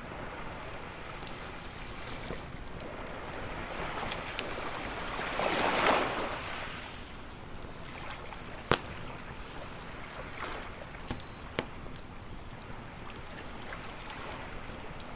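Ocean waves washing on a shore with a wood campfire crackling. One wave swells and breaks about six seconds in, and the fire gives a few sharp pops, the loudest a little after the middle.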